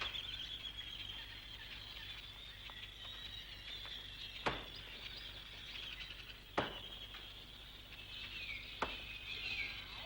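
Birds chirping steadily in a high, rapid chorus, with a few short falling whistled calls near the end. Three sharp clicks cut through it about two seconds apart.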